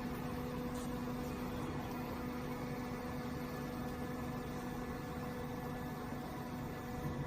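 Steady machine hum: a constant low tone over an even background hiss, unchanging throughout.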